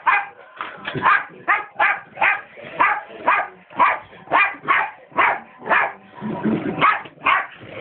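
Dog barking rapidly and repeatedly at a vacuum cleaner, about two sharp barks a second, with a brief lower rumble just past six seconds in.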